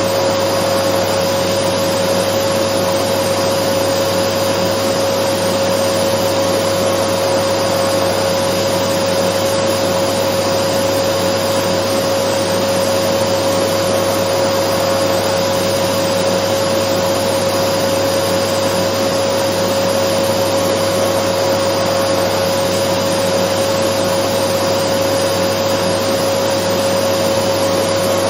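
Dyson vacuum cleaner running continuously: an even rushing hiss with a steady motor whine, unchanging throughout.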